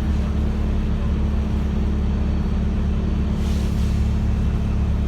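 Wright StreetLite single-deck bus engine running with a steady, unbroken drone. A brief hiss comes about three and a half seconds in.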